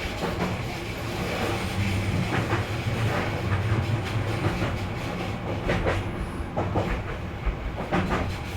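Odakyu electric commuter train running along the track: a steady rumble with a low motor hum and irregular clicks of the wheels passing over rail joints.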